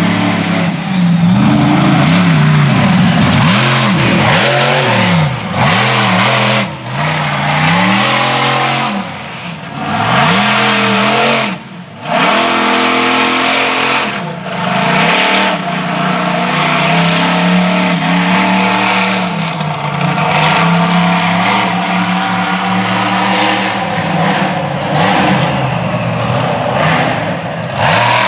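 Ramminator monster truck's engine revving hard over and over, its pitch surging up and falling back repeatedly, with a few brief dips where the engine drops off.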